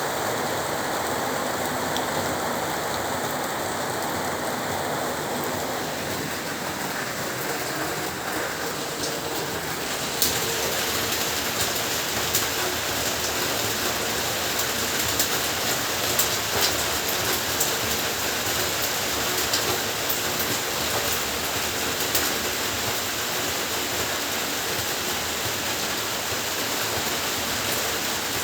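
Heavy rain falling steadily. About ten seconds in the sound changes: the hiss gets brighter and is peppered with sharp individual drop ticks.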